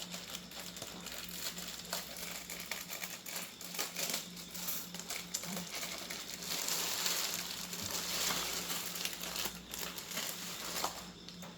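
Parcel packaging crinkling and rustling as it is handled, with scattered small clicks and taps.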